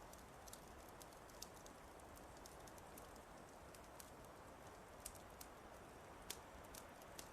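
Fireplace fire crackling faintly: irregular sharp pops and snaps over a steady soft hiss.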